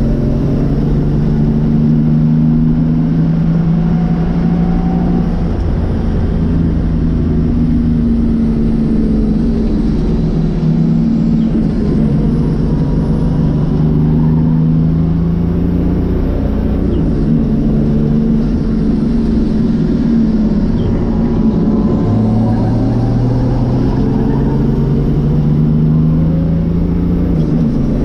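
Nissan RD28 2.8-litre straight-six diesel engine of a stripped-out S13 race car, heard from inside the cabin under racing load. The engine note climbs slowly and falls back several times as the driver accelerates, lifts and changes gear around the circuit.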